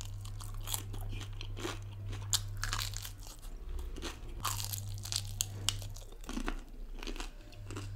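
Close-up chewing of a cooled, cornflour-coated fried mutton momo: irregular sharp crunches, several a second, as the hard crust breaks between the teeth. It is very crunchy.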